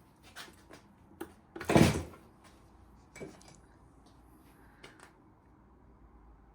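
Scattered light clicks and knocks from classic Mini engine parts being handled while a piston is taken out, with one much louder clunk about two seconds in.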